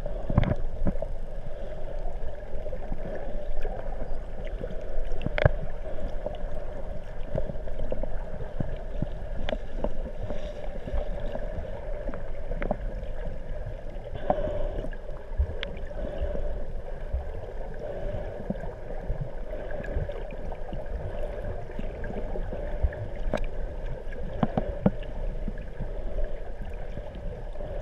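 Water noise muffled through a GoPro's waterproof housing: a steady hum with low rumble and many scattered clicks and crackles.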